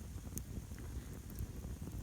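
Wood campfire crackling, with a few sharp pops over a low rumble.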